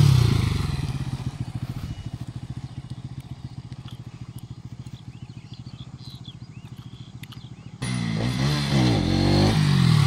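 Bajaj Pulsar NS200's single-cylinder engine revving, easing down over a couple of seconds to a steady idle, then revving hard again, rising and falling, about eight seconds in.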